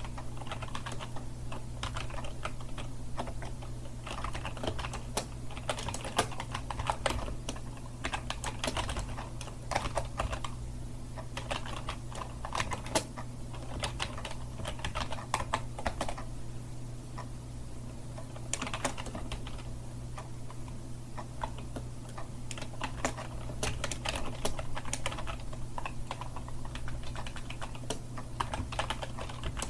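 Continuous typing on a computer keyboard: rapid, irregular key clicks with short pauses, over a steady low hum.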